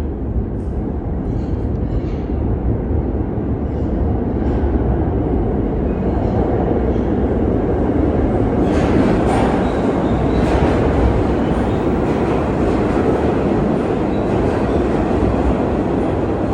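New York City Subway (A) train running on the track at an underground station, a steady rumble that grows louder; from about nine seconds in, wheel and rail clatter and clicks come in on top.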